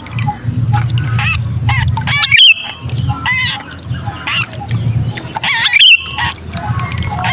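Sooty-headed bulbul distress calls ('kejepit', the cries of a trapped bird) used as a lure: harsh squawks repeated several times a second, the two loudest cries about two and a half and six seconds in. A steady low hum runs underneath.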